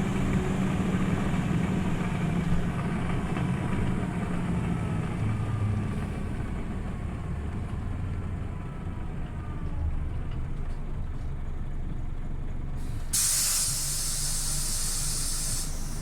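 Scania OmniLink CL94UB city bus's diesel engine running as the bus slows, with a faint whine falling in pitch. About thirteen seconds in, a loud hiss of compressed air from the bus's pneumatics lasts a couple of seconds.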